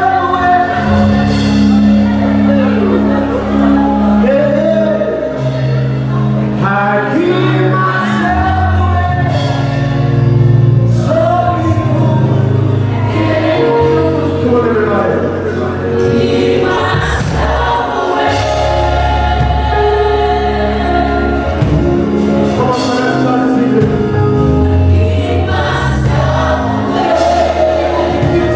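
Gospel worship music: a choir singing over a steady bass line.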